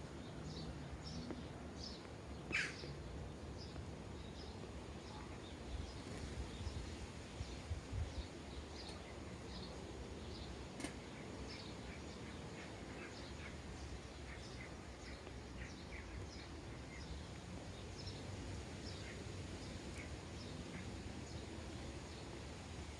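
Sparrows chirping at bird feeders: many short, high chirps in quick succession, with one louder call about two and a half seconds in, over a steady low background rumble.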